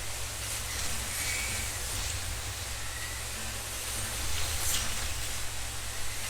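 1/32 scale slot cars running laps on a track, their small electric motors and pickup braids making a steady hiss over a constant low hum, with a few faint high whines.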